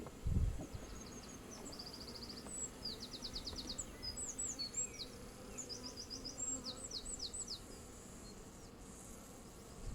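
Honeybees humming steadily around an open hive. A small bird sings a run of quick, high trills and chirps through the middle, and there is a soft thump near the start.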